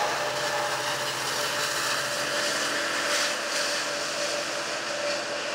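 Steady noise heard from inside a car as a Sounder commuter train rolls away into the distance, with a brief swell about three seconds in.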